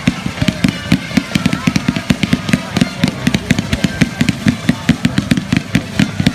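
Fireworks going off in a rapid, continuous barrage of sharp bangs and crackles, several a second.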